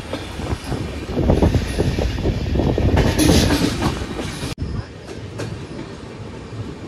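Passenger express train running along the track, its coach wheels clattering irregularly over rail joints under a steady rumble. The sound breaks off abruptly about four and a half seconds in and carries on a little quieter.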